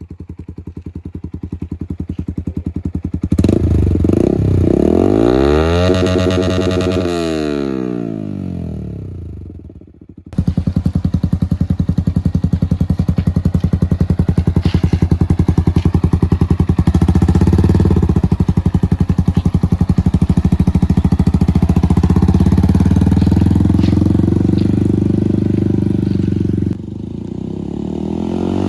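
Yamaha R15M single-cylinder motorcycle engine running through a full-system aftermarket exhaust. About three seconds in, the bike goes past with its note rising and then falling. After a sudden break near ten seconds, the engine runs steadily with a rapid even exhaust beat for most of the rest.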